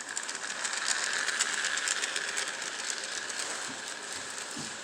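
A small battery-powered toy train running, its motor and gears making a steady whirr with rapid fine clicking.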